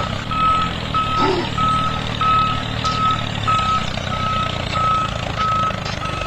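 Truck reversing alarm beeping evenly on one high pitch, about three beeps every two seconds, over a low steady rumble.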